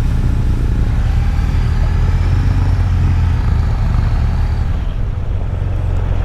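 Motorcycle engine running at a steady road speed under heavy wind noise, easing off a little near the end.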